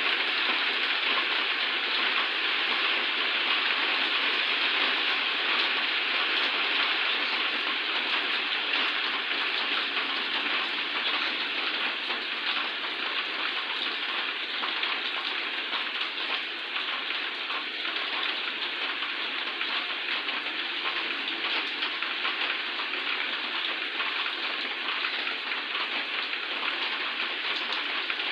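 Steady rain falling, a continuous even hiss of drops on surfaces that eases slightly after the first several seconds.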